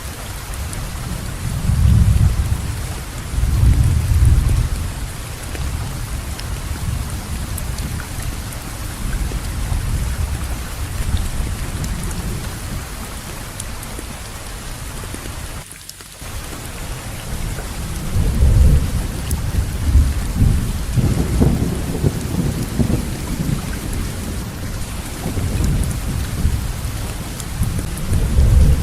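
Steady heavy rain with rolling thunder: low rumbles swell about two seconds in and again through the second half, and the sound dips briefly about halfway through.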